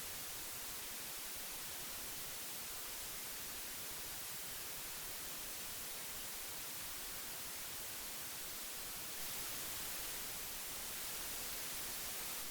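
Steady hiss of old analog tape, an even bright noise without tones, rising slightly in level about nine seconds in.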